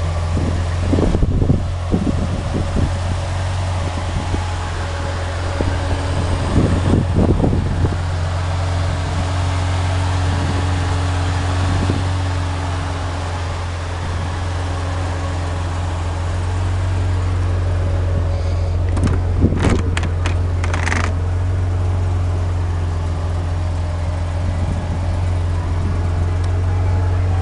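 1992 Ford Thunderbird Super Coupe's supercharged 3.8 L V6 idling steadily through a 3-inch mandrel-bent exhaust with Magnaflow resonator and mufflers: a low, even drone. A few short knocks come about a second in, around seven seconds in, and again near twenty seconds in.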